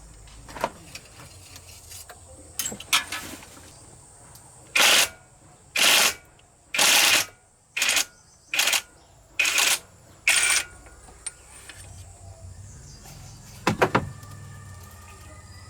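Seven short bursts of hissing in quick succession, each under a second long, with a few sharp knocks before and after.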